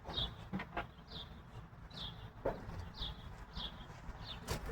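A bird chirping, a short falling chirp repeated about once a second, with a few faint knocks.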